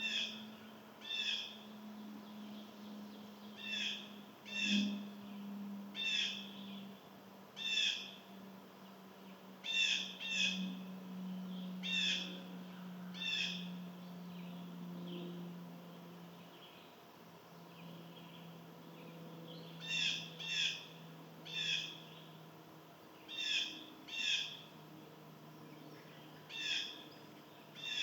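A bird giving short, repeated calls, often in pairs a second or so apart, with a pause of several seconds midway. A faint low drone sinks slowly in pitch underneath.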